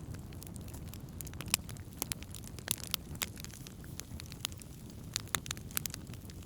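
Wood campfire crackling, with irregular sharp pops and snaps over a steady low rumble; one pop about a second and a half in stands out as the loudest.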